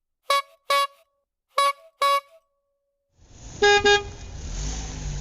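Cartoon car horn sound effect: a double beep, heard twice. About three seconds in an engine rumble swells up, two lower honks sound over it, and the engine runs on steadily.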